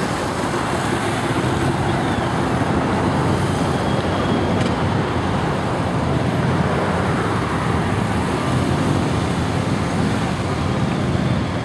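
Victory Commander II police motorcycle's V-twin engine running as it is ridden around a tight course, under a steady rushing noise.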